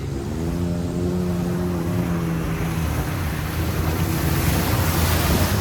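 Off-road vehicle's engine running under load, its pitch climbing in the first second and then holding fairly steady. A rushing noise builds up over the engine toward the end.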